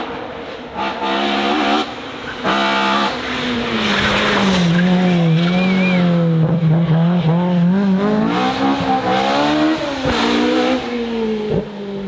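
Hillclimb race car engine at high revs. The pitch drops with braking and downshifts and then climbs again as it accelerates, with a brief tyre squeal partway through.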